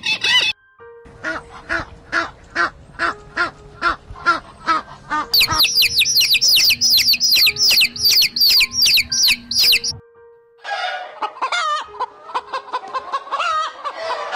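A bird calls in an even series of about two to three calls a second. From about five seconds in comes a dense chorus of high baby chicks peeping. Near the end adult chickens cluck and squawk.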